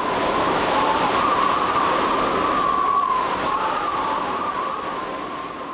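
Howling wind: a rushing noise with a wavering whistle running through it, swelling in at the start and fading near the end.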